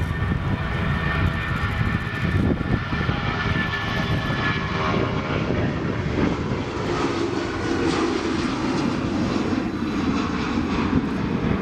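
Boeing 757 jet airliner departing under take-off power, a loud steady racket of jet engine noise. A high whine in it slowly falls in pitch over the first few seconds.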